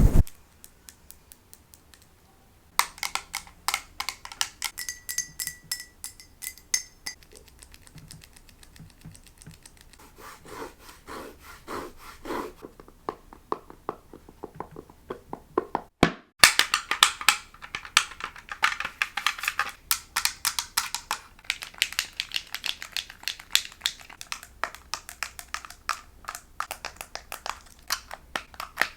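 A rapid string of close-miked ASMR triggers: quick tapping and scratching on a series of different objects, each lasting a few seconds before the next begins, one with a faint ringing tone.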